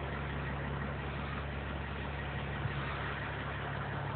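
Truck engine idling steadily: a low, even hum.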